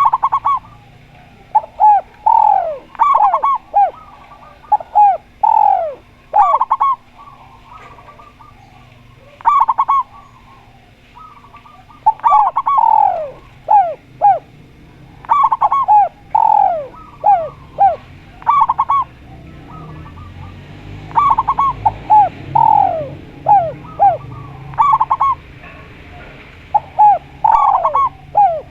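Doves cooing in short phrases of quick falling notes, a phrase every second or two, with brief pauses between bouts.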